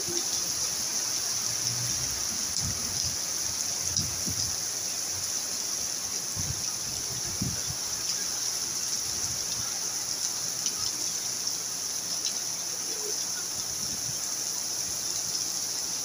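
Heavy rain pouring steadily, an even, continuous hiss.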